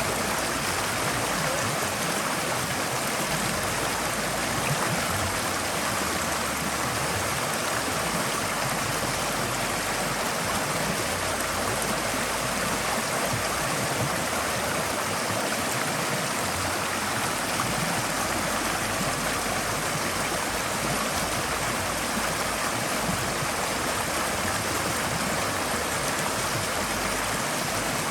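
Forest stream flowing steadily over stones, an even rush of water with a fine babbling texture.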